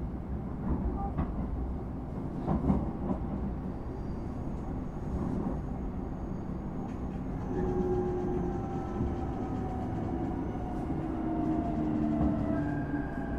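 Train interior: a steady rumble of wheels on the rails, with a few sharp clicks in the first few seconds. From about halfway, whining tones at several pitches rise over the rumble and slide slowly down in pitch.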